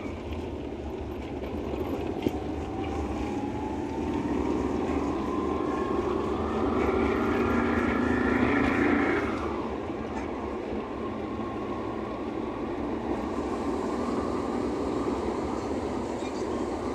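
Car driving on a wet road after rain, pulling away from a stoplight: steady tyre hiss on the water with a whine that rises slowly as the car accelerates. The sound grows louder about halfway through, then eases back to a steady rolling noise.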